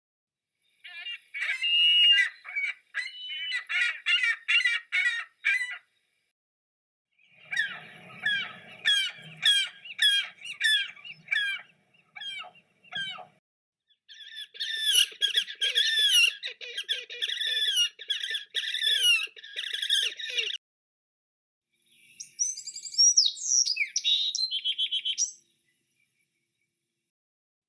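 A series of recorded bird calls played one after another in four short clips, each a run of repeated chirps and down-slurred notes, with dead silence between clips.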